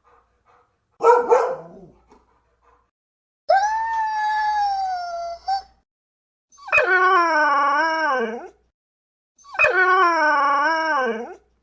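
A dog barks once, then three long howls follow, each about two seconds: the first higher and smoother, the last two lower with a wavering pitch.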